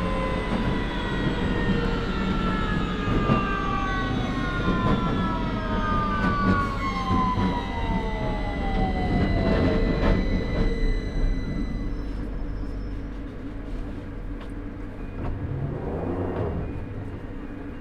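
Victoria line 2009 Stock train's traction motors whining in several tones that fall together in pitch as the train brakes into a station, over a steady rumble of the running train. After about eleven seconds the whine dies away and the rumble quietens as the train slows toward a stop.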